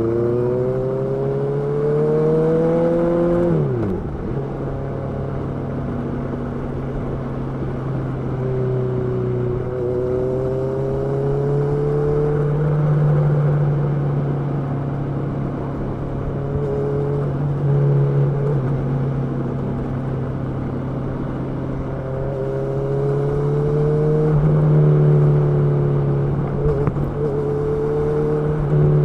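Honda CB650R's inline-four engine pulling up through the revs, then dropping sharply with a gear change about four seconds in. After that it runs at fairly steady revs with a few gentle rises and brief dips on the throttle, and the revs fall away again at the very end.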